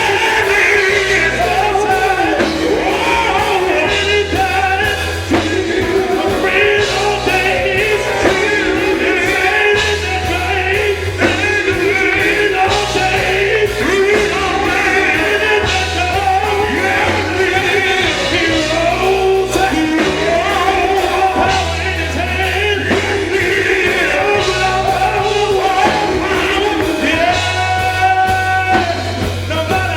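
Gospel group singing with a band behind them, a steady bass line and a regular beat running under the voices.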